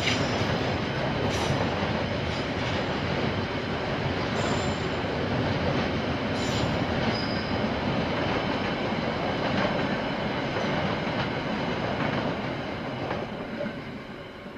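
KiwiRail train passing close by: a steady rumble of wheels on rail with a few brief high wheel squeals, fading away over the last couple of seconds.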